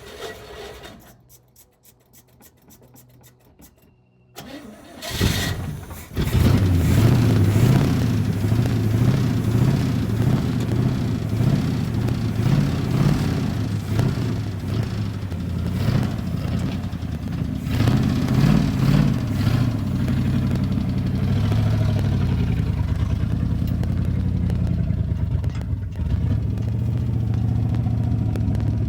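Chevrolet C30 square-body dump truck engine cranking on the starter for a few seconds, then catching about five to six seconds in and running loud, its speed rising and falling before it settles into a steadier run. It is a worn motor that the owner thinks is close to blowing up.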